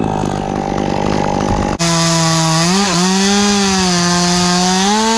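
Two-stroke Stihl chainsaw running at high revs under load, cutting wood. The engine note dips briefly a little under three seconds in and picks up again near the end. There is an abrupt change in the sound about two seconds in.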